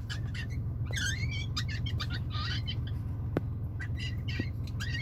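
A bird chirping and calling in a quick run of short, varied notes, some sliding up and down in pitch, over a steady low hum.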